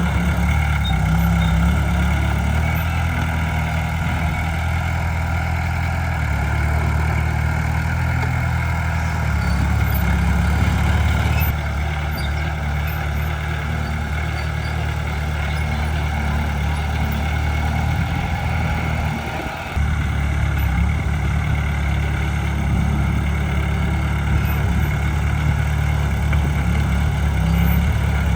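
Heavy diesel engine of earthmoving machinery running steadily at an even, low pitch, briefly dipping about two-thirds of the way through.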